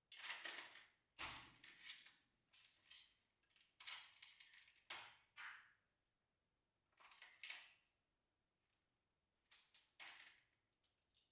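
Soft slime being squished and pressed by hand, making short, irregular sticky squishing and popping sounds in clusters with brief pauses between them.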